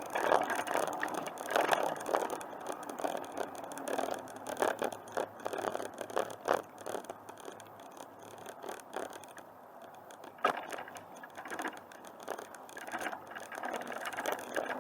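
Bicycle being ridden along a path, rattling with many irregular clicks and knocks.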